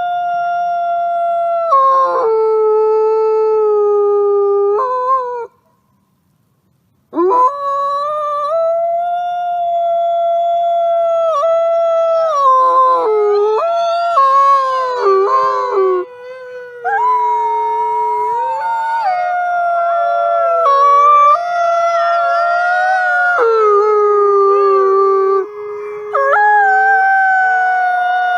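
Wolves howling: long, held howls that step down in pitch, a short silence about six seconds in, then several voices overlapping in a chorus through the second half.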